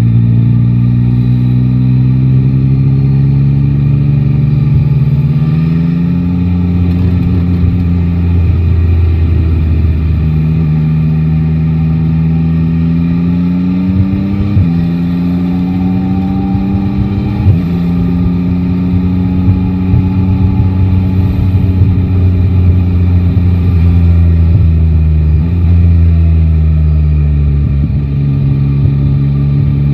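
Yamaha Tracer 9 GT's three-cylinder engine pulling through city traffic. Its pitch climbs steadily, then drops abruptly several times as the gears are changed.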